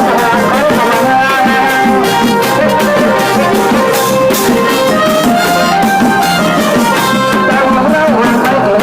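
Thai trae wong brass band playing: horns carry the melody over a steady drum beat.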